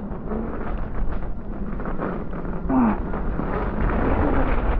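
Steady rushing noise of wind on the microphone, growing gradually louder, with a brief falling voice sound about three seconds in.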